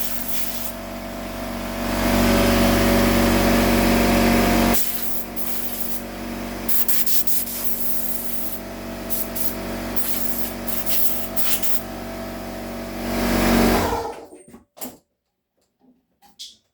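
An electric workshop power tool running steadily, its noise rising twice as it is loaded, then switched off and winding down about fourteen seconds in, followed by a few light clicks.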